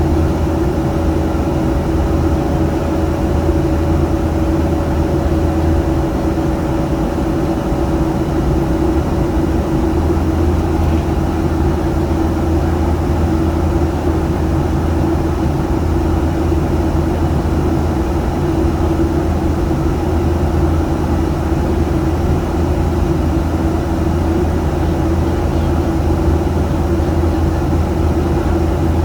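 Aircraft in flight after takeoff: a steady engine drone with a low rumble and a couple of steady humming tones.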